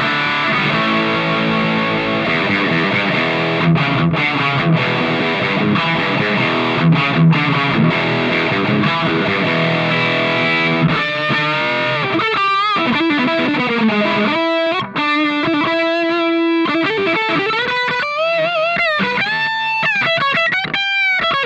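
Electric guitar played through the distortion section of a combination effects pedal, gain at a moderate setting: distorted chords for about the first ten seconds, then single-note lead lines with string bends and vibrato.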